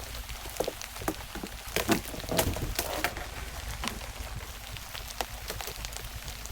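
Rain falling, with raindrops tapping irregularly on a surface over a low steady rumble.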